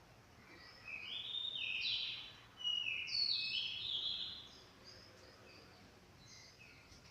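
Orange-headed thrush, just out of its moult, singing a fast run of varied whistled notes that step up and down in pitch, loudest from about one to four and a half seconds in, with softer scattered notes either side.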